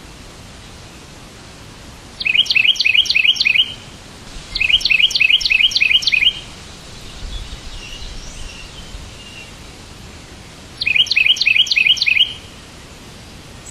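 A songbird singing three short phrases, each a quick run of about six repeated chirping notes, with fainter chatter between them, over a steady background hiss.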